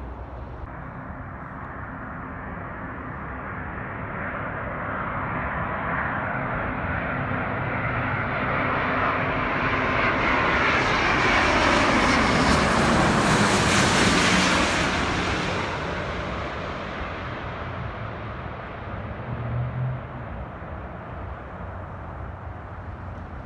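Jet airliner on final approach, passing low overhead. Its engine roar builds steadily, peaks a little past halfway through, then fades, with the pitch dropping as it goes by.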